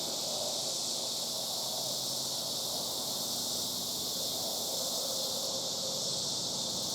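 Steady chorus of cicadas, a continuous high buzzing drone with no breaks.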